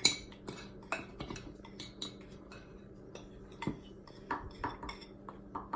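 Kitchen utensils clinking and scraping against dishes: a run of irregular light clicks and taps, the sharpest right at the start.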